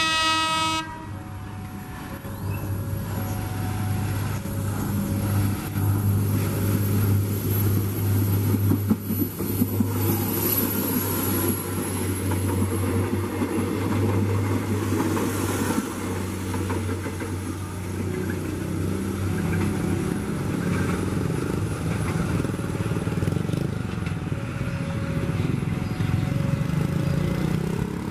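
A short blast of a train horn right at the start, then a diesel railcar train running past with a steady low engine drone and the rumble of its wheels on the rails.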